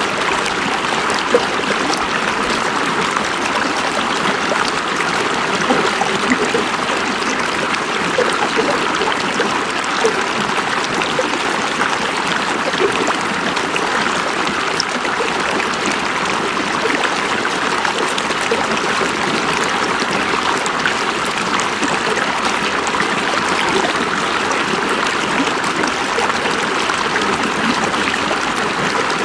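River water running over rocks: a steady babbling rush with small trickling splashes.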